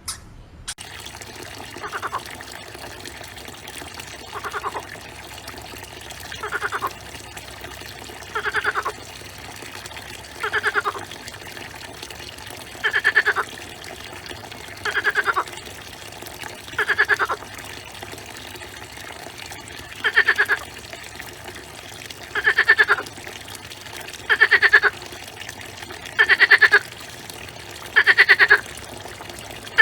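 A frog calling: about thirteen short pulsed trills, one every two seconds or so, growing louder toward the end, over steady running water.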